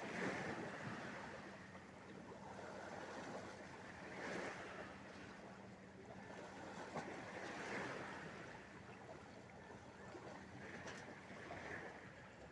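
Sea waves breaking and washing in, a surge about every four seconds, four in all. A faint steady low hum runs underneath.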